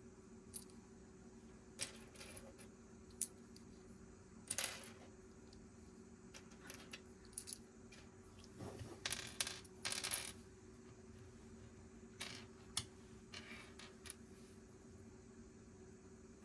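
Small plastic Lego pieces clicking and rattling as they are handled and sorted, in scattered sharp clicks and short clattering flurries, busiest about halfway through. A faint steady low hum lies underneath.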